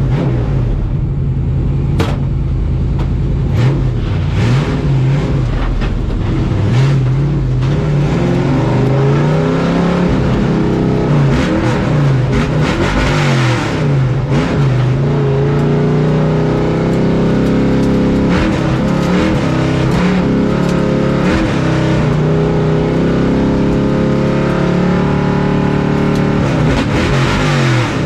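Pro Truck race truck's engine heard from inside the cab, its pitch rising and falling over and over as the driver accelerates and lifts, with rattles and clicks over it.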